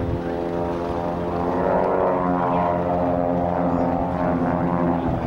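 Piston-engined propeller aerobatic aircraft flying past: a steady engine and propeller drone that swells about two seconds in and then eases off.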